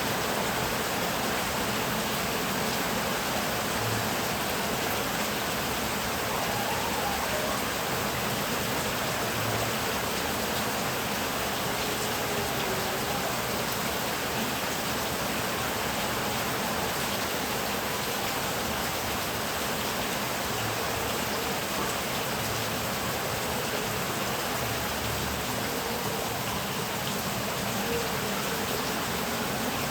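Heavy rain falling steadily, an even hiss of rain with no thunder rolls.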